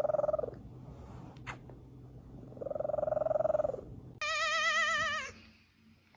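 Domestic cat purring in two long, buzzy breaths, then one long wavering meow about four seconds in that stops about a second later.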